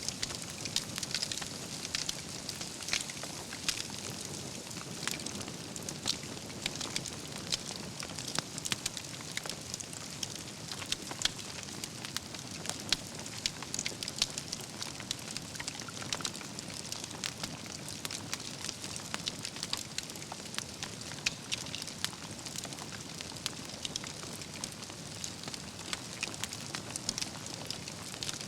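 Wood fire burning, with a steady hiss and many irregular crackles, and now and then a louder pop from the burning logs.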